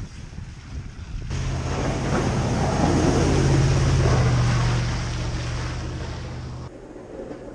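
Snow plow truck's engine running under load with a rushing noise of snow being pushed, swelling to its loudest midway and then easing off, cutting off abruptly near the end.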